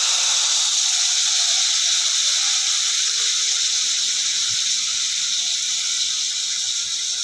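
Chopped vegetables with freshly added soy sauce sizzling in hot oil in an aluminium kadhai, a steady hiss.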